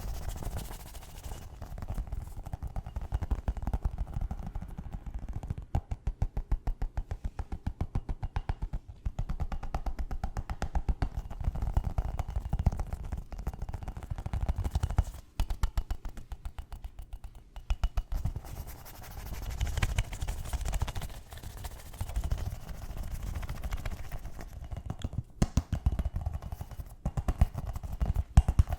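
Fast, aggressive tapping and scratching on hard objects: rapid strings of taps in bursts, with short pauses between them.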